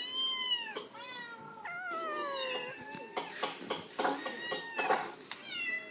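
Cat meows from a cat-noise video playing on a laptop: about six meows one after another, most falling in pitch.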